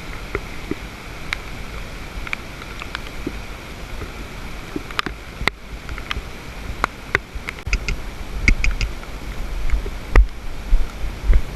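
Steady rain and wind noise on a GoPro microphone during a ride, with scattered sharp clicks and, from about eight seconds in, regular low thumps.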